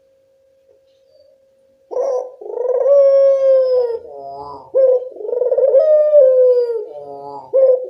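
Puter dove cooing: after about two seconds of near silence, two long hoarse coos that slide slightly down in pitch, each followed by short lower notes, with a third coo starting near the end. It is a lure call (pancingan) used to draw an answer from other puter doves.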